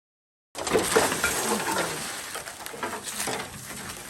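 Silent for about half a second, then a dense rustling and scraping with many small clicks: dry chicken manure mixed with coffee husks being poured and spread by hand around banana plants.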